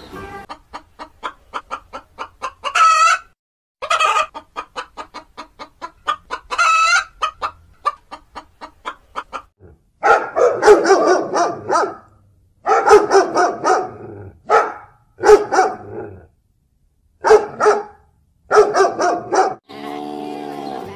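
Chickens clucking in quick runs of short calls, with a rooster crowing twice; in the second half louder bursts of calls follow, each lasting a second or two, with short gaps between.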